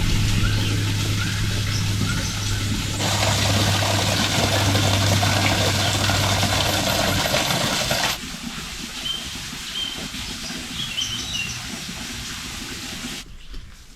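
Outdoor sounds in abrupt edited cuts: a steady rushing noise with a low hum underneath, then a quieter stretch with a few short high bird chirps.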